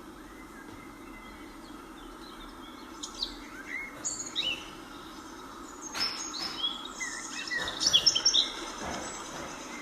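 Several birds calling: short chirps and whistles over a steady background hiss, starting about three seconds in and growing busiest and loudest near the end.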